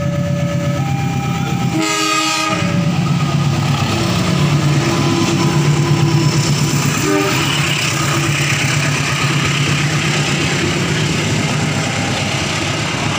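CC 201 diesel locomotive sounding a short horn blast about two seconds in, then passing close by with a steady engine drone. Its passenger coaches follow, wheels rumbling and clacking over the rails.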